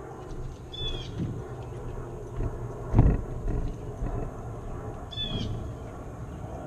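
Outdoor background with two short, falling bird chirps, one about a second in and one past five seconds, and a single dull thump on the wooden deck about three seconds in.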